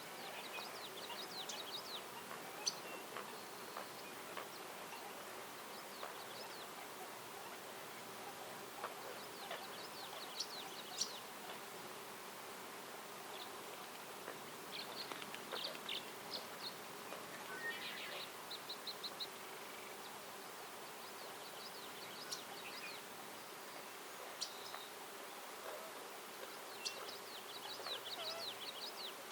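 Songbirds calling in woodland: short runs of quick, high chirps that come back every few seconds, over a faint steady hiss of outdoor ambience.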